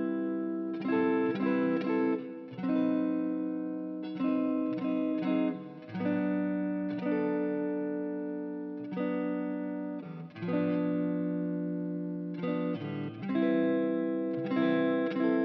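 A guitar playing a slow chord progression: each chord is struck and left to ring and fade for one to two seconds, with a few quickly picked notes in between.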